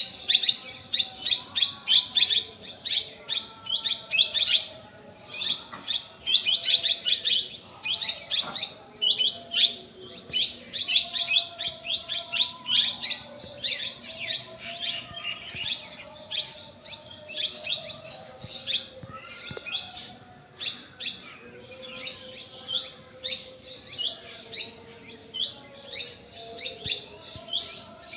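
Many small birds chirping rapidly and continuously, several high chirps a second, with fainter lower whistled notes underneath.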